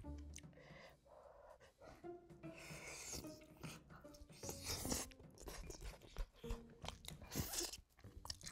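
Close-up chewing and biting sounds of braised spicy chicken being eaten, with scattered small clicks and sharper bursts as meat is bitten from the piece.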